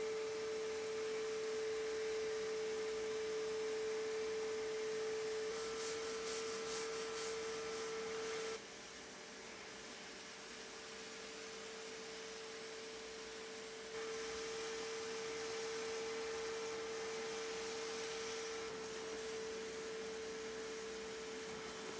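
Bissell portable spot cleaner running steadily, its motor giving a constant whine over a rushing hiss as it is worked over fabric upholstery. The sound drops noticeably quieter for a few seconds in the middle, then comes back up.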